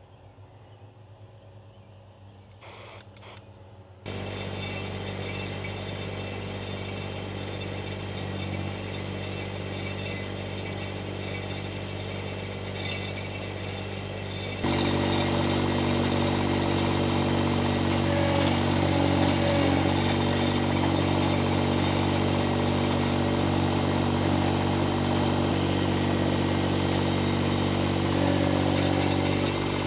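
Engine of a machine driving a powered post-hole auger, digging a fence-post hole. It is quiet for the first few seconds, then the engine runs steadily and picks up to a louder, faster run about fifteen seconds in.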